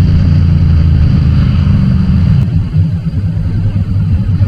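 Motorcycle running on the road, its engine drone loud on a bike-mounted action camera's microphone. About halfway through the steady drone eases off and turns choppier, as the rider backs off the throttle.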